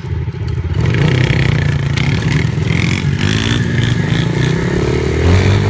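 Motorcycle engine running, its pitch rising from about three and a half seconds in as it accelerates.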